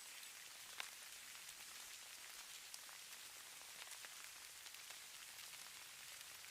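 Faint steady hiss of falling snow, with many tiny scattered ticks of flakes or grains landing and one slightly sharper tick about a second in.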